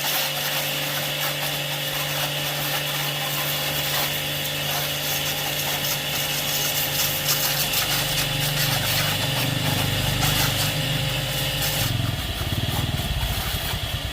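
Electric pressure washer switched on and running steadily: a motor hum with a hiss over it. Its low hum wavers and changes pitch in the last few seconds.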